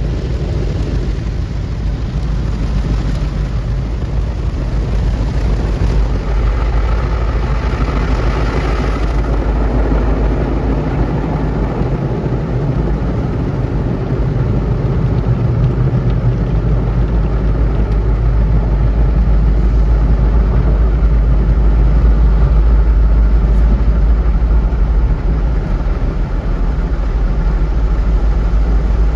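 Automatic car wash machinery running around a car: a loud, steady low rumble with a rushing noise over it.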